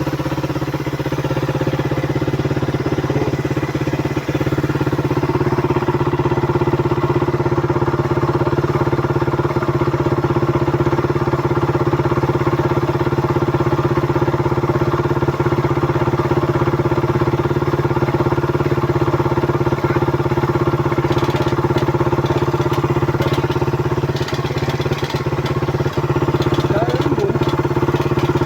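Suzuki Raider 150 motorcycle's single-cylinder four-stroke engine idling steadily, with a few light clicks and knocks near the end.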